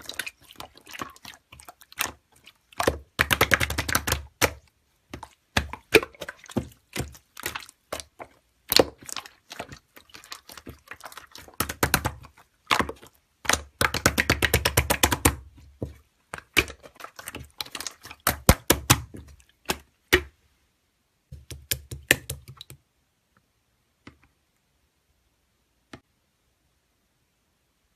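Slime being squeezed and pressed by hand, making a run of sticky clicks and pops with two longer bursts of rapid crackling. The clicking stops about three-quarters of the way through, leaving only a few faint ticks.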